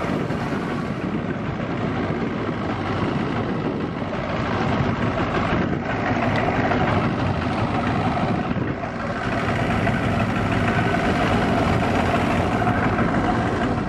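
Bass boat's outboard motor running steadily as the boat gets under way.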